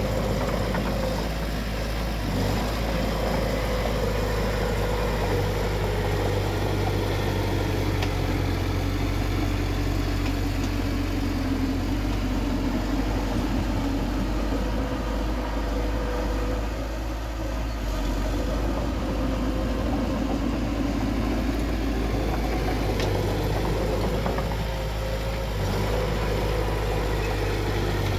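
Bulldozer's diesel engine running steadily under load, its pitch drifting slowly up and down as it works.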